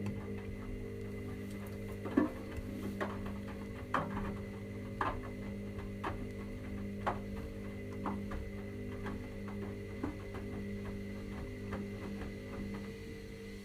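Washing machine running mid-cycle: a steady motor hum with light clicks about once a second.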